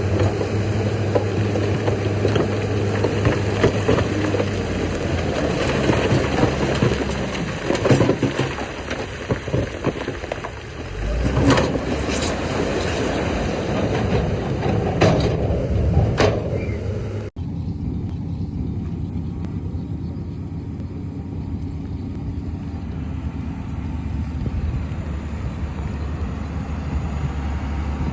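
Diesel engines of heavy earthmoving machinery running, with several loud knocks and clanks in the middle. About seventeen seconds in, the sound changes abruptly to a quieter, steadier engine hum.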